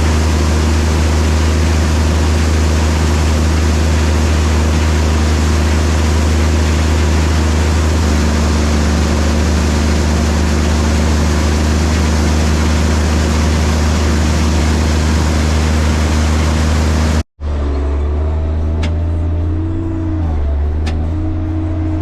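Diesel engine of heavy farm machinery running at a steady speed, a constant low drone under a loud rushing noise. About 17 seconds in it cuts abruptly to a similar engine drone with far less hiss, its pitch wavering slightly, with two faint clicks.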